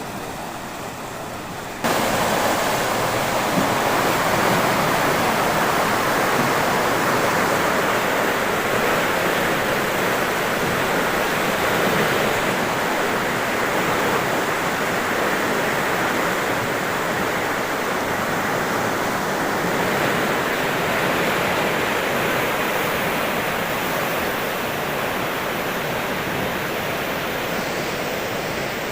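Fast-flowing floodwater rushing steadily. It gets suddenly louder about two seconds in.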